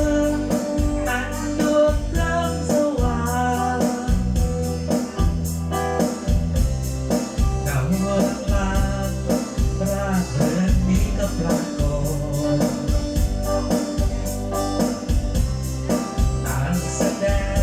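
A song with a singer and a heavy, pulsing bass beat, played loud through an outdoor PA system's subwoofer and hanging line-array cabinets as a system check.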